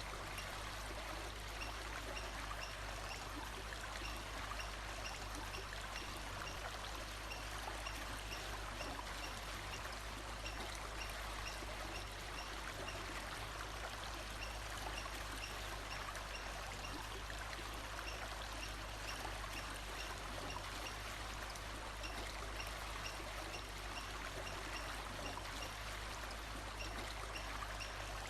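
Steady rush of running water, like a flowing stream, with faint high chirps repeating evenly through it.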